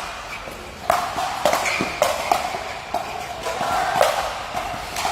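Sharp hits of a ball struck with rackets or paddles in a rally, with several hard strikes about half a second to a second apart, each ringing briefly in a large hall.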